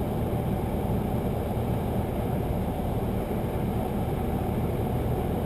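Cessna 172's engine and propeller drone mixed with airflow, heard inside the cabin as a steady low rumble, the throttle pulled back for a simulated engine failure on approach.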